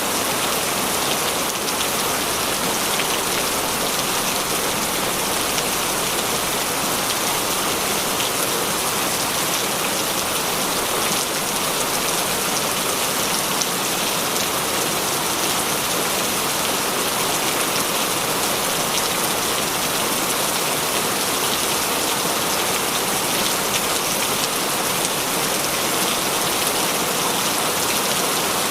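Heavy rain falling steadily, a dense even hiss with many fine drop patters on surfaces.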